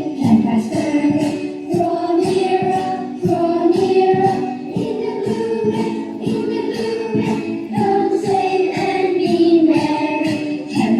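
A group of voices singing together over a steady, even beat.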